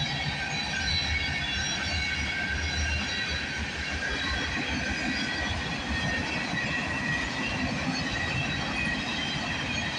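Freight cars rolling past on steel rails: a steady rumble of wheels, with several high-pitched wheel squeals held throughout.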